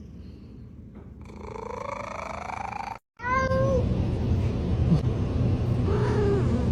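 Domestic cats meowing: one long meow rising in pitch, then, after an abrupt cut, two shorter meows over a steady low rumble.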